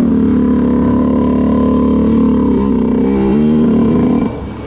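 Two-stroke dirt bike engine held at high revs while climbing a steep hill. The pitch dips briefly partway through, then the engine falls off and gets quieter near the end.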